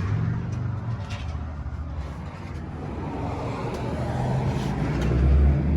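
Low rumble of passing road traffic, swelling to its loudest about five seconds in, with a few faint clicks.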